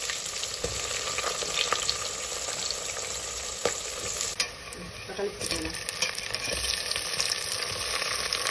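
Sliced onions sizzling in hot oil with whole spices in an aluminium pot: a steady frying hiss with a few sharp clicks, and a ladle stirring toward the end.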